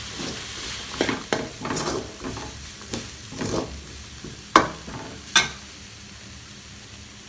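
Chopped vegetables and masala sizzling in oil in a pan while a spatula stirs and scrapes them, a string of scraping strokes with two sharper knocks of the spatula against the pan about four and a half and five and a half seconds in, then only the faint sizzle.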